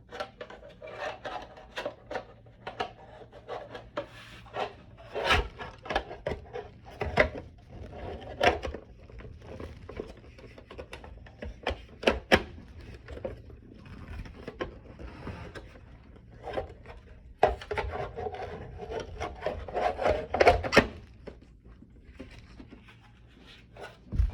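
Hard plastic parts of a Crane elephant ultrasonic humidifier being handled and pushed together, with irregular rubbing, scraping and knocking, busiest about a quarter of the way in and again past the middle.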